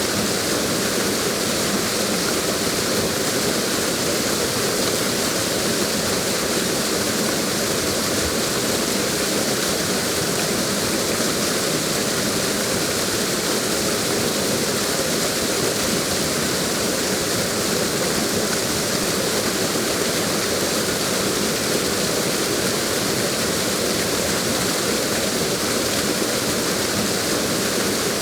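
Waterfall: a steady, even rush of falling water with no pauses or changes.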